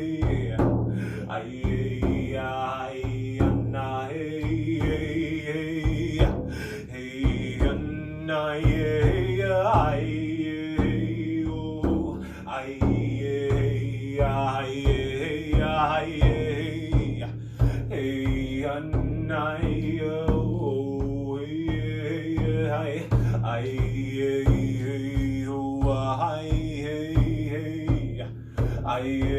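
Chanting voices singing a repetitive song in vocables over a steady drum beat.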